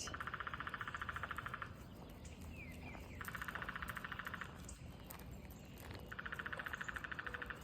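Woodpecker drumming on a tree: three bursts of very rapid, even knocks, each lasting about a second and a half, a few seconds apart.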